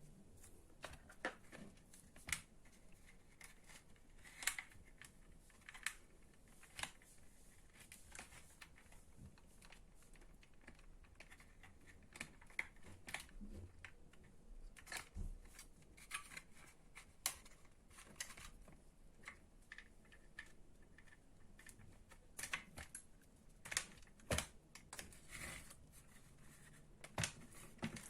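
Scattered faint clicks and taps of hand tools and plastic parts as an electric string trimmer is taken apart by hand.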